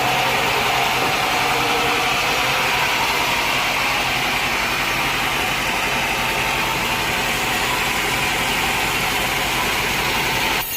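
Sawmill machinery running: a steady engine hum under a hiss that stays even, then cuts off suddenly at the end.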